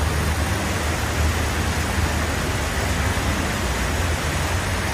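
Motor vehicle engine running, a steady low rumble under a constant broad hiss.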